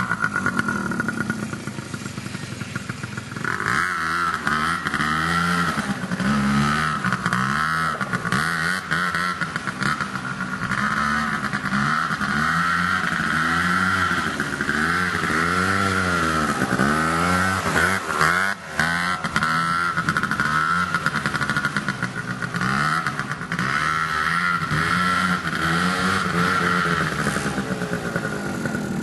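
The small engine of an Apache SX100 junior quad bike running, its pitch rising and falling over and over as it is revved up and eased off.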